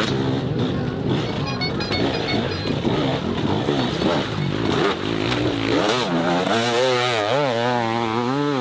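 Enduro dirt bike engine revving under throttle. Its note rises and falls repeatedly, swinging quickly up and down about twice a second through the second half.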